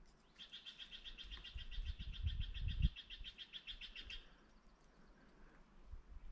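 A songbird singing one rapid, even trill of about eight notes a second, lasting close to four seconds. Low rumbling thumps sound under it in the middle.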